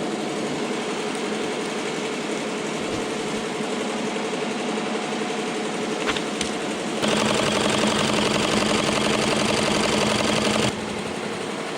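Machine embroidery running with a steady stitching whir; about seven seconds in it gets abruptly louder for a few seconds, then drops back.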